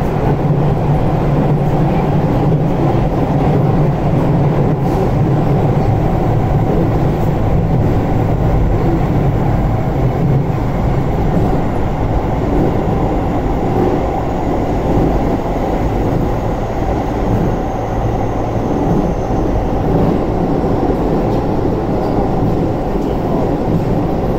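Keio 8000 series electric train heard from inside the car while running, a steady loud rumble of wheels on rails and car body. Its strongest low band eases off about halfway through, and a faint high whine sits above it.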